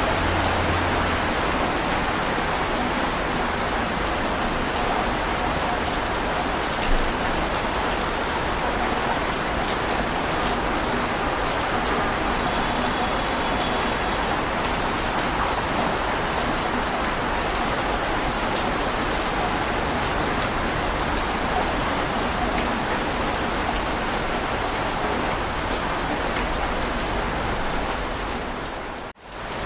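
Steady heavy rain, a dense even hiss of drops, with one brief louder drop hit about seven seconds in. Near the end it fades out almost to nothing and comes straight back, like a loop point in the recording.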